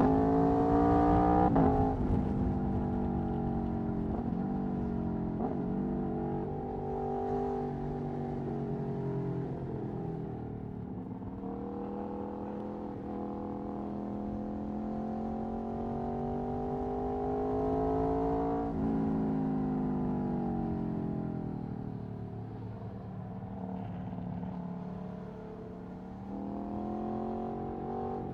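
Aprilia Tuono V4 1100's V4 engine through an Akrapovic Racing exhaust, under way: revs climb hard at first and drop suddenly about a second and a half in, then build slowly for a long stretch before another sudden drop, falling off and rising again near the end.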